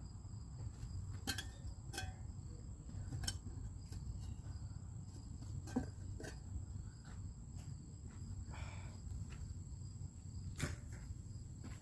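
A steady high-pitched insect trill, like crickets, over a low background rumble, with scattered light knocks and taps, the sharpest a little before the middle and near the end, and a brief scrape about three-quarters of the way through.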